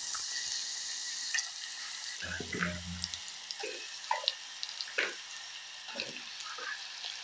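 Onion and chili sizzling as they fry in a pan, a steady hiss with scattered light clicks and knocks from stirring.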